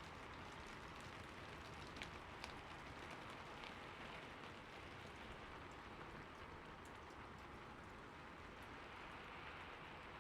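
Steady, soft rain falling, with individual drops ticking here and there over the even hiss.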